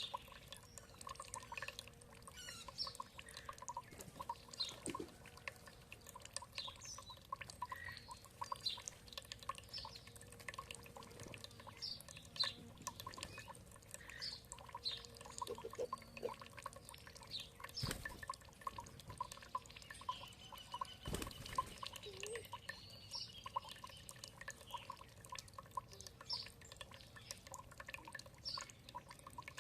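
Water dripping and trickling in a steady patter, with small birds chirping over it and one longer held call a little past the middle.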